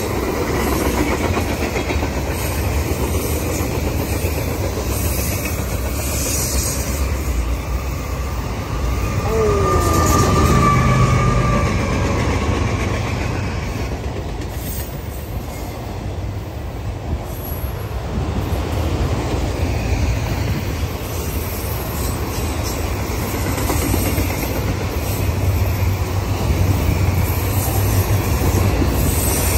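Freight cars rolling past: steady rumble of steel wheels on rail. About ten seconds in comes a short falling squeal from a wheel.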